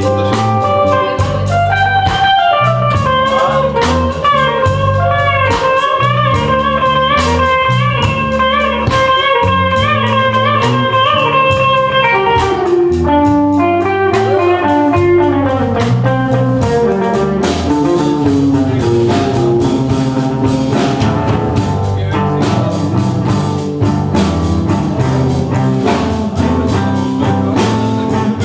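A live band playing an instrumental blues passage: a lead line of held notes with vibrato over guitar, bass and drum kit, with no singing.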